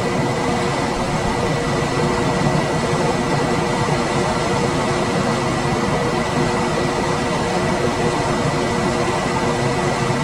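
Room air conditioner running steadily: an even rush of air from its fan, with a steady hum and a thin high tone underneath.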